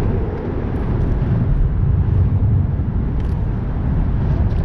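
Steady, loud low rumbling of wind buffeting the camera microphone, with a couple of faint clicks near the end.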